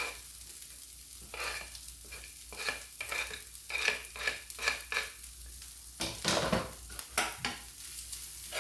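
Chicken and onion sizzling in olive oil and butter in a frying pan, with a utensil stirring and knocking against the pan in quick short strokes. There is a louder rush of sizzling and rustling about six seconds in.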